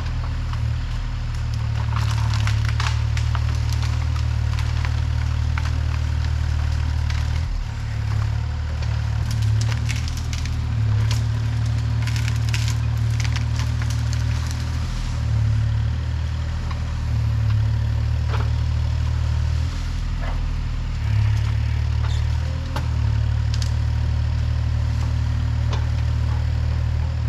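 A heavy machine's engine runs steadily with a low hum while wood cracks and splinters, the sound of brush and small trees being pushed over and crushed. The snapping is thickest in the first half and thins out later.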